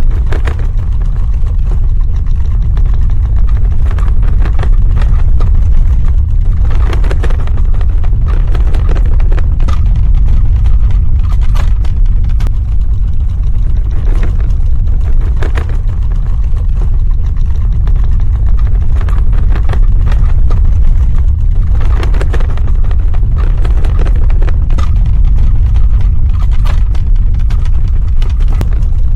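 Earthquake sound effect: a loud, steady deep rumble with bursts of crackling and clatter scattered through it.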